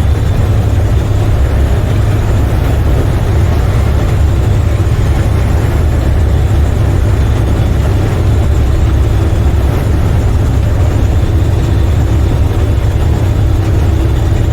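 Semi truck driving at road speed, heard from inside the cab: a steady, loud low rumble of engine, tyres and wind with no change in pace, and a faint steady hum joining it about halfway through.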